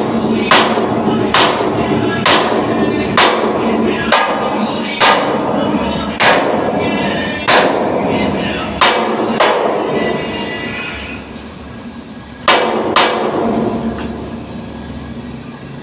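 Heavy hammer blows on a steel bumper channel being fitted to a dumper truck, each strike ringing briefly. The strikes come about once a second, pause, then two more land near the end.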